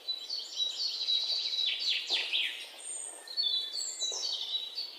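Birds chirping and calling: a busy run of high chirps and quick downward-sweeping notes.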